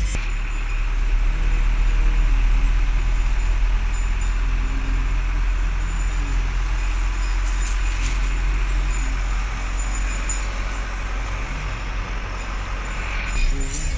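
Truck engine running with a steady low rumble, mixed with road noise, as heard while driving.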